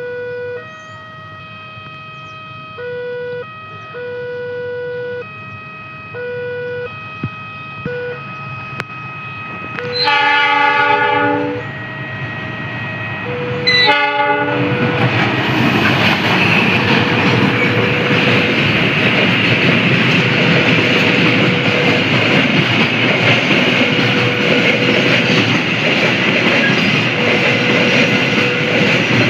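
Electronic warning tones chime in a repeating stepped pattern, typical of a level crossing signal. About ten seconds in, a freight train's diesel locomotive sounds a long horn blast, then a short one about four seconds later. The train then runs past with loud wheel rumble and clacking on the rails while the warning tone keeps sounding faintly underneath.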